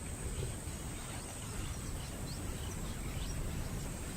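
Natural bush ambience: a steady high-pitched insect drone and scattered short bird chirps over a low, even rumble of background noise.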